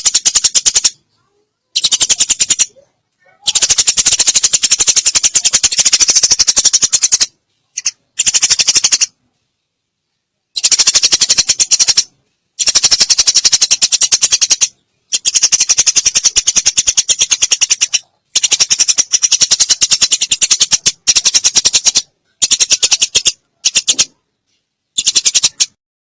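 Eurasian tree sparrow giving rapid, dry chattering calls in bursts of one to four seconds, broken by short silences.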